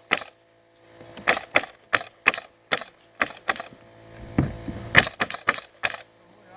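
Stinger CN100 pneumatic cap nailer firing plastic-capped nails in quick runs, about a dozen sharp shots with short pauses between bursts.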